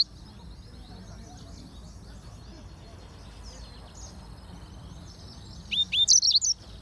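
Yellow-fronted canary gives one short, loud phrase near the end: two quick hooked notes followed by a burst of higher twittering. Fainter chirping from other birds runs underneath.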